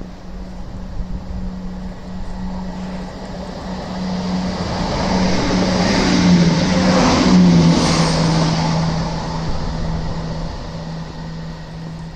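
Train passing by: a steady low hum whose pitch drops as the train goes past, with rushing wheel and track noise building to a peak about seven seconds in and then fading.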